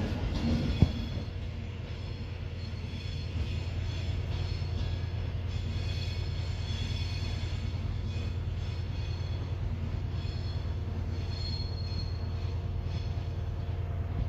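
A train moving through the station with a steady low rumble, its wheels squealing on and off in high thin tones. One sharp knock about a second in.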